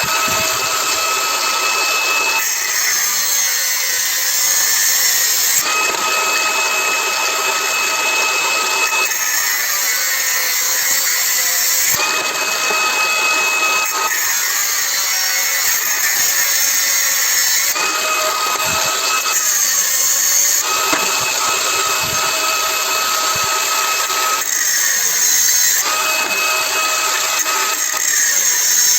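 Electric power tool running continuously at high speed, working on metal, with a steady high whine that comes and goes every three seconds or so as the load changes.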